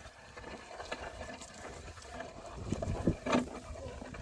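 Oxen pulling a plough through a field, with soft low thuds of their movement and a short call a little after three seconds in.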